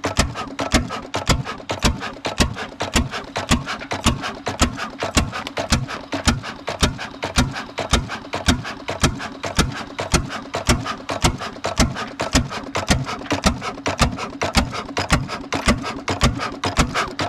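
Old stationary diesel engine running a tubewell pump at a steady slow speed, its firing strokes coming as a loud, regular knock about three times a second.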